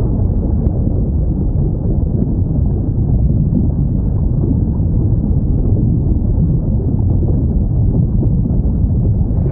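Steady, low underwater rumble: the ambience of a whale-sounds recording, with no distinct whale call.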